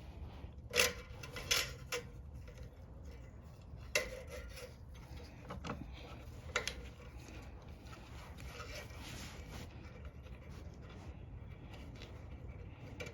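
Scattered light clicks and taps of small metal parts being handled and fitted as a lawn mower's carburetor and governor linkages are reassembled, several in the first seven seconds, over a low steady hum.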